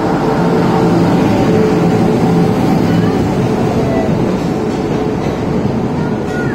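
Indian Railways electric locomotive and its passenger coaches running through a station platform at speed: a loud, steady rumble of wheels on rails, with a low hum in the first three seconds as the locomotive passes.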